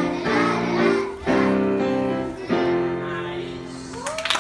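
A group of young children singing a song with piano accompaniment, in held phrases that fade out on the last note. Applause breaks out near the end.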